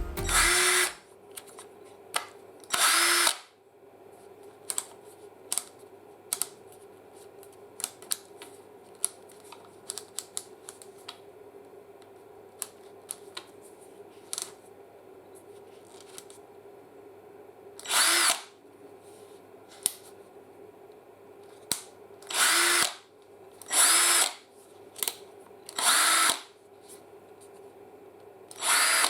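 Metabo BS 18 L 18 V cordless drill/driver run in short trigger pulls of under a second, about seven times, its motor whine rising as it spins up each time. Sharp clicks and taps of handling come between the runs.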